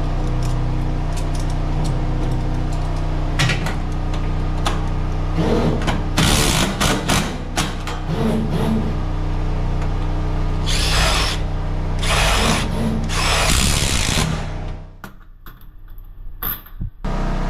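Power drill running in several short bursts of a second or two each, over a steady low hum.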